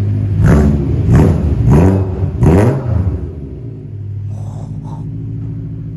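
BMW E92 M3's 4.0-litre V8 running with both mufflers removed, exhaust open after the resonators: four quick rev blips from idle in the first three seconds, then settling back to a steady idle.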